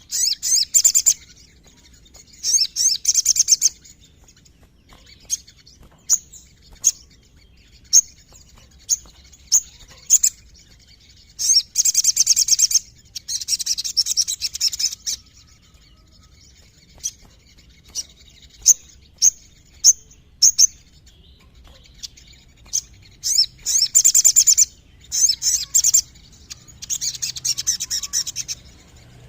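Sogon (ruby-cheeked sunbird) singing: bursts of rapid, high-pitched trilled notes lasting about a second each, several times over, separated by single sharp high chirps.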